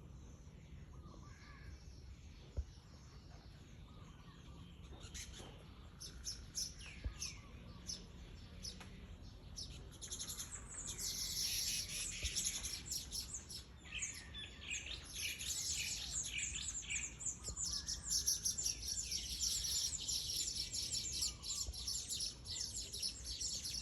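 Weaverbirds chirping, a few scattered calls at first building about ten seconds in to a dense, continuous chatter of rapid high chirps that gets louder toward the end.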